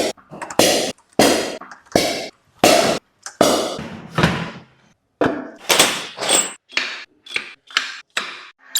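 A series of sharp knocks and thuds, each ringing briefly before dying away, about one a second, then shorter and quicker near the end.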